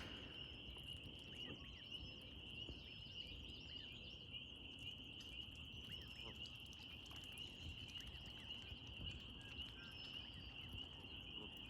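A steady, high-pitched chorus of small calling animals, with faint scattered bird chirps over it.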